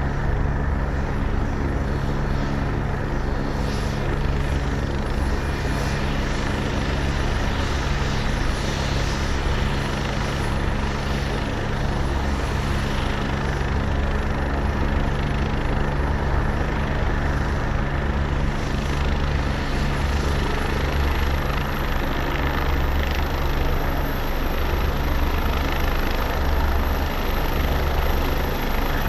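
Helicopter running steadily, its rotor throbbing low. A thin high whine steps up in pitch about two-thirds of the way through.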